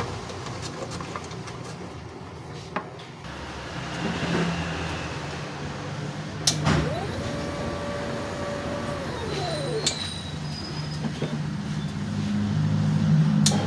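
Paint tinting machine motors running over a low steady hum: a whir rises in pitch, holds for about two seconds and winds down, then starts again near the end, with a few sharp clicks in between.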